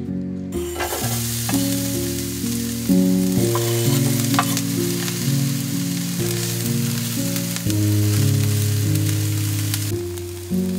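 Diced peppers, onions and crumbled mince frying in a cast-iron skillet: a steady sizzle that starts about half a second in. Background music plays under it.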